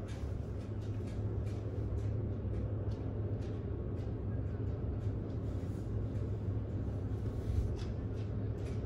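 Steady low drone of the Mein Schiff 3 cruise ship under way, its engines and hull vibration heard on board, with irregular short clicks and splashes over it.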